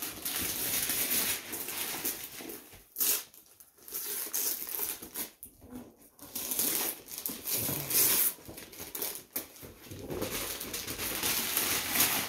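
Gift wrapping paper being torn off and crumpled by hand, in irregular rustling, crinkling stretches with short pauses.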